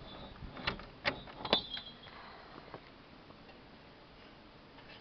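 Screen door being handled: three sharp metallic clacks in the first two seconds, then a faint steady hiss.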